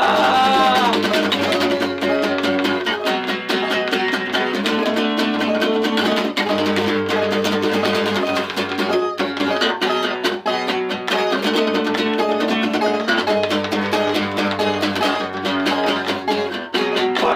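Acoustic guitars strummed and picked in a steady rhythm, an instrumental break without vocals.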